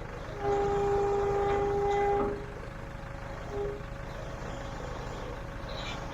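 A vehicle horn gives a long honk of about two seconds and then a short toot over the low, steady rumble of an engine.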